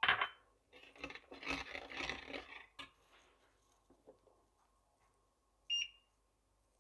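Garlic and ginger paste being scraped off a spoon into the cooking pan: a rough scraping, rustling noise lasting about two seconds, then a short high squeak near the end.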